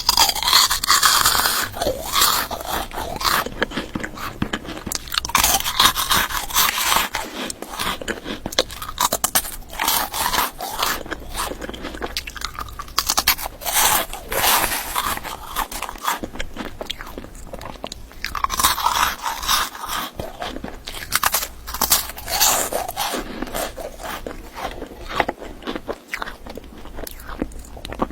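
Close-miked biting and chewing of hard crunchy candies: louder bursts of crunching every few seconds, with steady crackling chewing in between.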